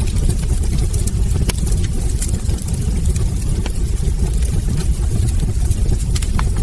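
Wood fire burning in a fireplace: a steady low roar with frequent sharp crackles and pops from the logs.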